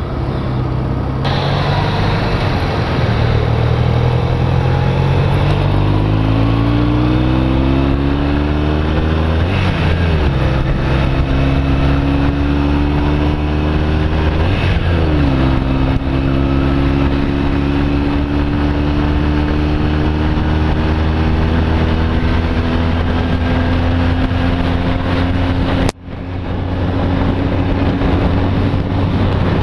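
Honda CB250 Nighthawk's small parallel-twin engine accelerating under load: the revs climb, break at an upshift, climb again, and break at a second upshift, then hold a steady high drone at freeway speed. Wind noise runs under it throughout. Near the end the sound drops out suddenly for a moment, then comes back.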